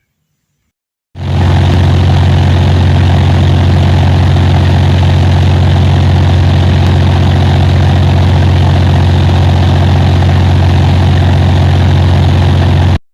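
Loud, steady mechanical drone with a strong low hum over a rushing noise. It starts abruptly about a second in and cuts off sharply near the end.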